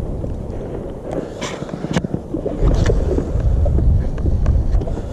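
Wind buffeting the microphone on a kayak on open water, rising about halfway through, with a few light knocks and splashes.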